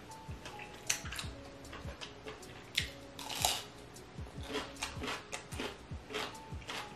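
Close-miked chewing of boiled cuttlefish: a steady string of wet mouth clicks and smacks, a few louder about one and three seconds in.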